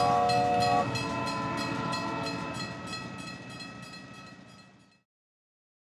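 Train sound effect: a steam-train whistle sounding a chord over rhythmic chugging. The whistle cuts off about a second in and the chugging fades away.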